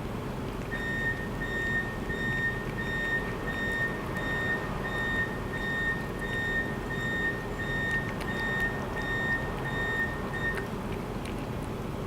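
A vehicle's reversing alarm beeping steadily, about twice a second, over a low engine and traffic rumble; the beeping stops about ten seconds in.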